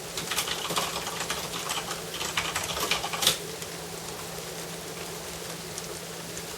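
Steady rain, with a flurry of rapid, close ticks and taps for about three seconds that stops suddenly.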